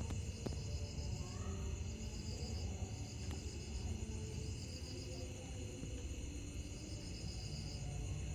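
Night insect chorus: crickets chirping in trains of rapid high pulses about a second long, repeating with short gaps, over a steady high insect drone and a low rumble.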